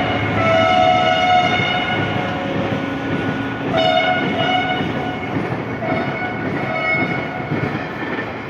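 Diesel locomotive horn sounding three blasts, each a chord of several tones, over the running rumble of a train.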